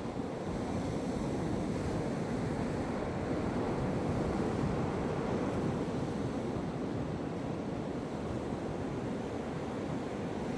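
Atlantic Ocean surf breaking and washing up on a sandy beach: a steady rushing wash of waves that swells a little louder in the middle.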